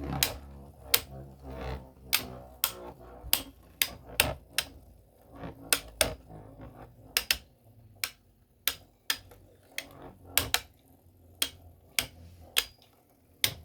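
Spinning 3D-printed plastic Beyblades clashing with each other and knocking against the stadium in sharp, irregular clacks, one to three a second, over a low whir that fades about halfway through.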